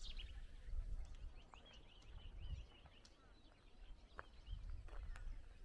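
A small songbird singing a quick run of repeated high chirps, about five a second, lasting a second or two, over a low rumble. A few faint clicks follow near the end.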